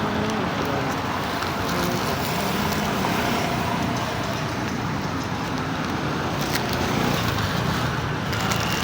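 Steady outdoor street noise dominated by road traffic.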